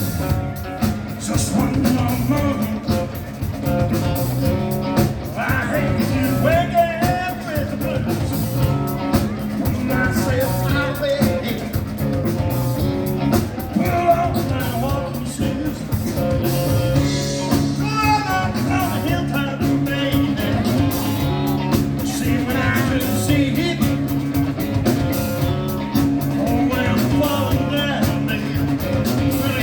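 Live rock and roll band playing a song, with a man singing lead.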